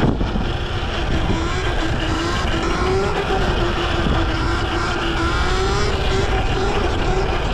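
Dirt bike engine running at steady high revs, its pitch rising and falling slightly.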